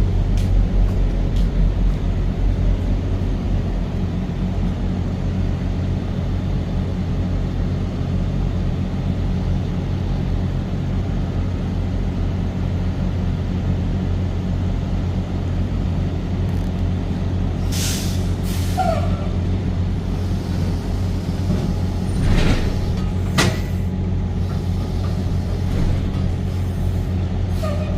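Truck engine running steadily with a low drone, with a few short hisses in the second half.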